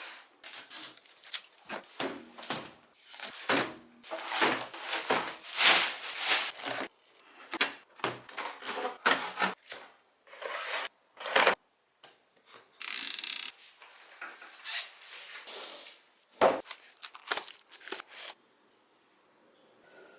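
Coffee-machine packaging being handled and unpacked: cardboard and plastic rustling, rubbing and scraping, with scattered knocks. About 13 seconds in comes a steadier scraping stretch of a second or so, and the handling stops about 18 seconds in.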